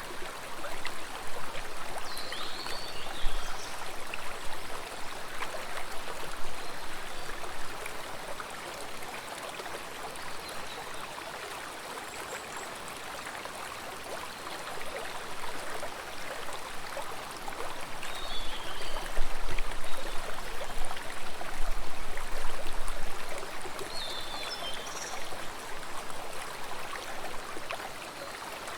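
Stream water flowing and splashing steadily, swelling louder for a few seconds past the middle. A few short, high chirps sound over it now and then.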